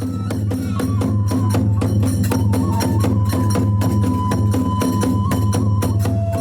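Kagura hayashi accompaniment: a drum beating steadily underneath, small hand cymbals clashing in a fast even beat of about four a second, and a bamboo flute holding a long high note through the middle.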